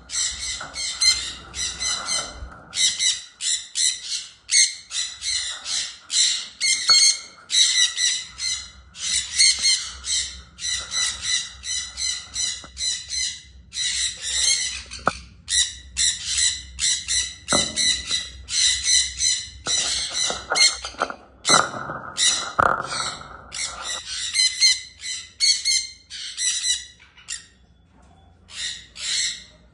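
Parrot giving rapid, harsh, high-pitched squawks in quick runs, almost without pause, growing quieter in the last few seconds.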